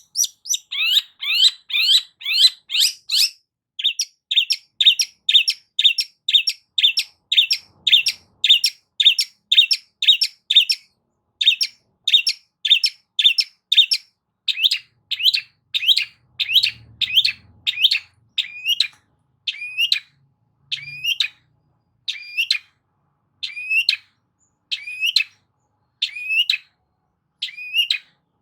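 Long-tailed shrike (cendet) calling: a long series of short, sharp repeated notes. They come fast at first, three or four a second, and gradually slow to about one a second.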